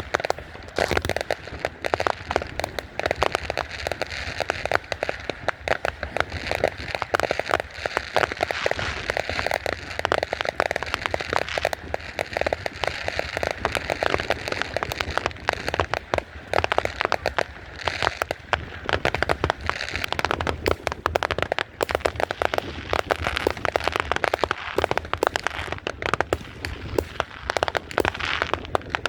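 Fireworks going off without a pause: a dense, rapid crackle of many small pops, with a few louder bangs among them.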